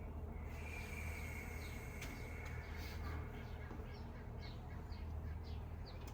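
Small birds chirping in quick, short, falling calls again and again over a steady low hum. A thin, steady high tone sounds for about a second and a half near the start.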